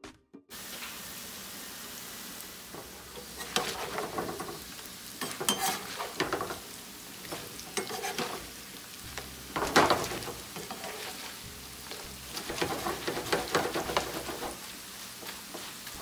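Tortilla pieces frying in hot oil in a nonstick pan as they turn into totopos: a steady sizzle. Repeated bursts of scraping and rustling come as a slotted spoon stirs and turns the chips, the loudest about ten seconds in.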